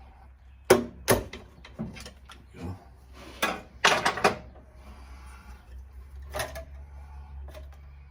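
Hand tools and metal engine parts knocking and clinking irregularly, a few sharp clanks with quieter handling noises between.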